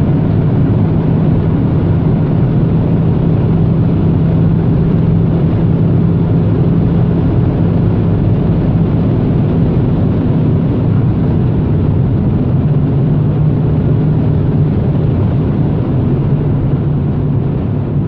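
Opel Astra G's 1.8-litre 16-valve four-cylinder engine (Z18XE) running at high, nearly steady revs, with a steady drone mixed with road and wind noise. The small dips around 11 and 14.5 seconds may be gear changes.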